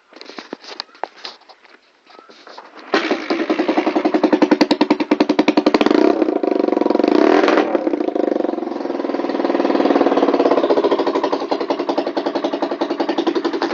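250cc enduro dirt bike's single-cylinder engine cold-starting on choke: a few clicks, then it catches about three seconds in and runs with a rapid, even firing beat. It revs up briefly about halfway and settles back to a fast idle.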